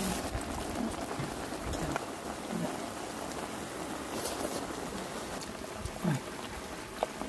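Sliced zucchini sizzling as it fries in a pan: a steady hiss with a few light clicks.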